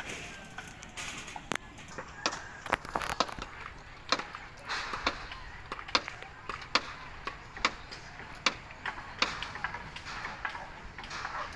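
Repeated sharp knocks, irregular and roughly one a second, over voices talking in the background.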